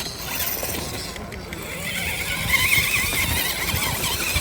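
Small electric motor of a scale RC rock crawler whining, its pitch wobbling up and down as the throttle is worked, strongest about halfway through, over a steady hiss.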